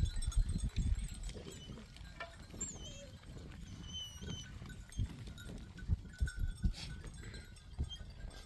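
A herd of sheep and goats, with scattered low knocks and thumps and a few short high chirps.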